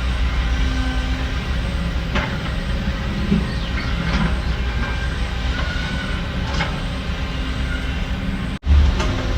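Heavy diesel earthmoving machinery running steadily with a deep rumble, with a few sharp metallic clanks. The sound cuts out for an instant near the end.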